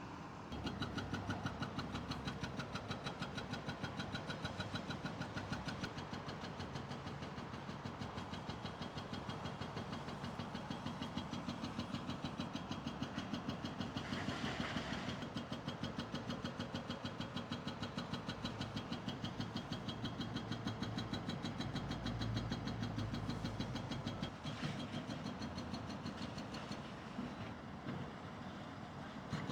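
Heavy equipment's diesel engine running steadily with a fast, even pulsing beat. About halfway through comes a brief burst of hiss.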